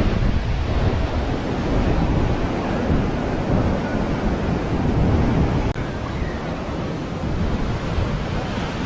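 Ocean surf washing onto the beach, with wind buffeting the microphone: a steady wash of noise, heaviest in the low end.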